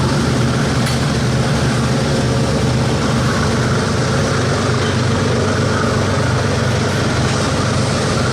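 Diesel locomotive engine running loudly and steadily, a low even drone with no change in pitch.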